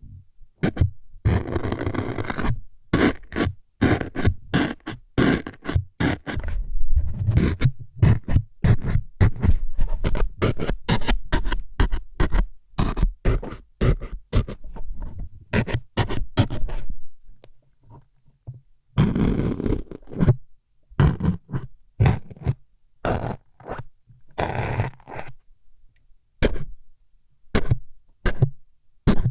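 Close-miked ASMR trigger sounds meant as needles stabbing into the ears: quick, irregular jabs and scrapes against the microphone, with a few longer scraping strokes and a brief pause just past the middle.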